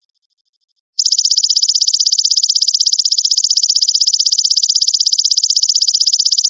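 Belalang emas (golden grasshopper) singing: a loud, high, rapidly pulsing trill that starts about a second in and cuts off suddenly at the end.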